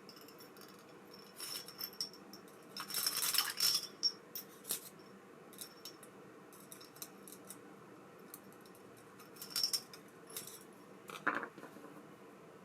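Small metal reel parts and tools clinking and rattling against each other and a hard surface as an ABU Ambassadeur 5500C baitcasting reel is worked on, in two clusters of quick clicks, about three seconds in and again near ten seconds.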